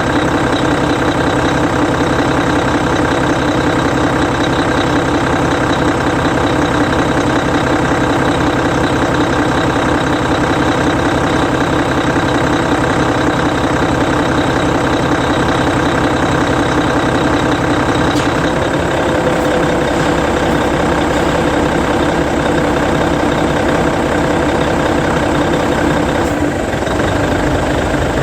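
Hino E13C 12.9-litre straight-six diesel of a Hino Selega coach idling steadily. Near the end the engine note dips and changes as the coach begins to move off.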